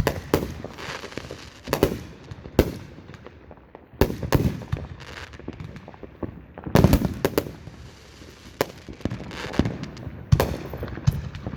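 Consumer fireworks going off at a distance: a run of sharp bangs with crackling between them, the loudest about four and seven seconds in.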